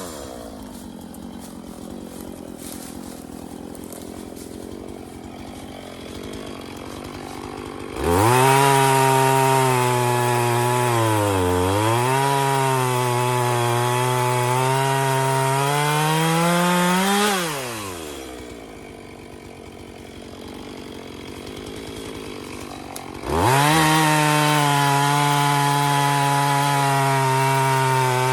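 Two-stroke chainsaw idling, then opened up to full throttle about eight seconds in, its pitch dipping briefly midway. It drops back to idle after about nine seconds, then revs up again near the end and is held at high speed.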